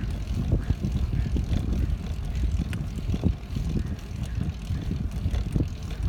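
Low, uneven rumble of wind buffeting the microphone on a moving bicycle, mixed with the ride's own tyre and frame noise.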